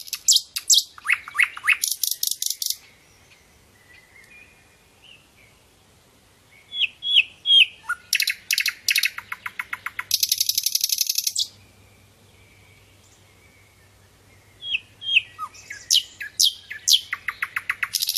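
Sikatan londo flycatcher song: three bursts of rapid, repeated high chattering notes and fast buzzy trills, with pauses of a few seconds between them.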